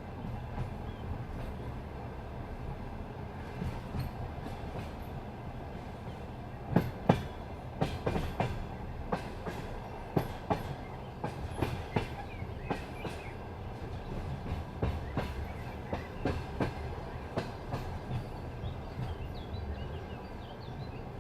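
Passenger train running over the rails: a steady low rumble with the wheels knocking over rail joints. About a third of the way in, the knocks turn sharper and come in irregular clusters, starting with a loud double knock.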